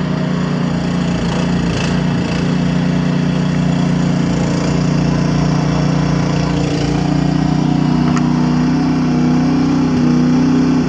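A 25-horsepower snowblower's engine runs steadily under load as it bites into deep, packed snow, getting a little louder over the last few seconds.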